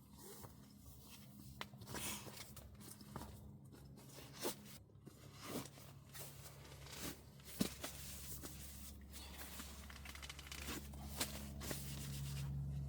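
Irregular handling noises: rustles, crinkles and short tearing or crunching sounds with scattered sharp clicks, over a steady low hum.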